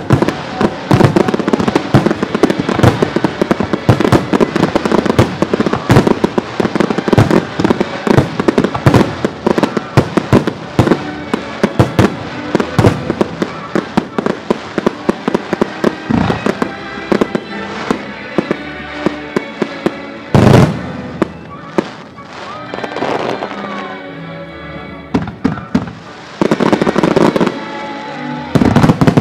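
Aerial fireworks display: a rapid, dense salvo of shell bursts and crackling bangs, thinning out after about 17 s to scattered bursts, with a big one about 20 s in and another cluster near the end. Music plays underneath.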